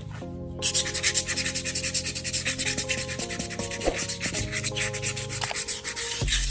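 Sandpaper rubbed in quick back-and-forth strokes on the metal shell of an old refrigerator compressor, sanding its surface clean; the strokes start about half a second in.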